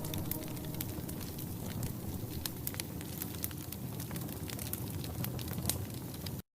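Wood fire crackling inside a wood-burning stove: many small, sharp, irregular crackles and pops over a soft hiss. The sound cuts out abruptly just before the end.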